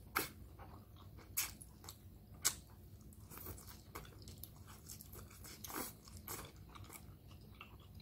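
Close-up chewing of a mouthful of fresh raw coriander (cilantro) sprigs: soft crunching and crackling, with a few sharper crisp crunches about a second apart early on.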